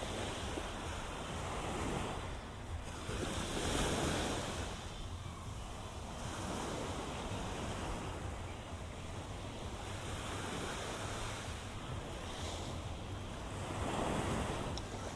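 Small ocean waves breaking and washing up the sand, swelling and fading every few seconds, loudest near the start and again near the end, over a low wind rumble on the microphone.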